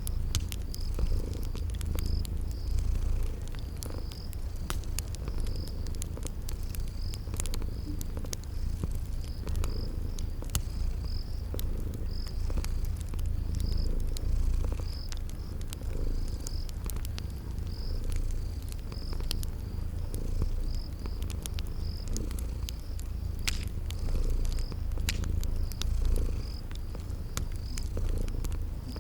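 Cat purring in a steady low rumble, layered with crickets chirping in a regular high pulse about once or twice a second and a wood fire crackling with scattered sharp pops.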